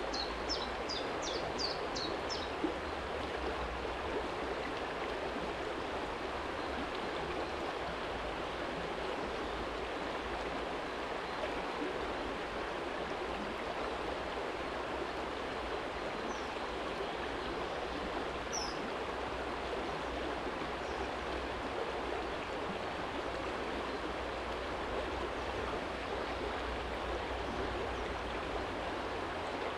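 Small shallow stream flowing steadily over a stony bed, an even rushing of water. A bird gives a quick run of about seven chirps in the first few seconds, and a couple of faint chirps come about two-thirds of the way through.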